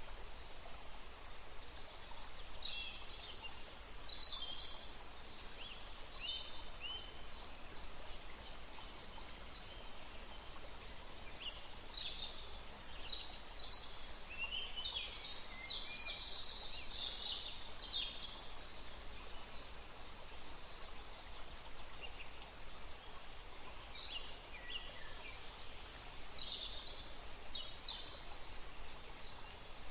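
Woodland ambience: several songbirds chirping and calling in short bursts, busiest around the middle and toward the end, over a steady background hiss.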